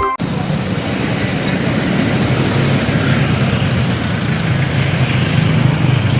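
Truck on a highway: steady engine drone with road and tyre noise, starting abruptly just after the start.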